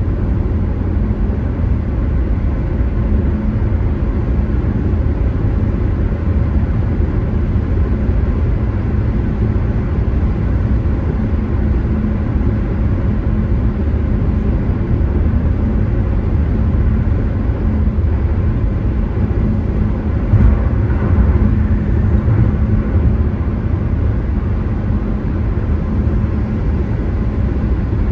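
Car driving on the road: a steady low rumble of tyres and engine, with a brief louder bump about twenty seconds in.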